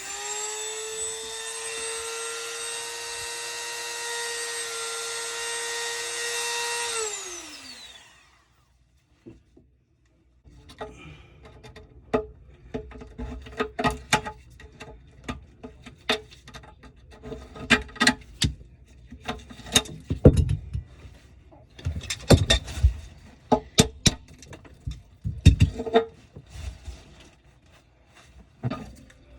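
A handheld power tool's motor running at a steady high whine for about seven seconds, then spinning down as it is released. After a short pause come irregular clicks, knocks and scraping from hand work on the parts.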